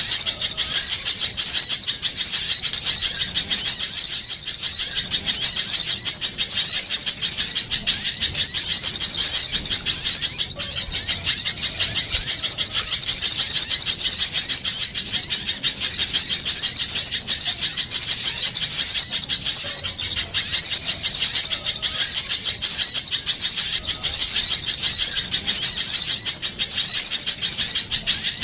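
A dense, unbroken chatter of many small songbirds, with rapid high-pitched chirps overlapping throughout: a bird-lure recording of a noisy flock of small birds.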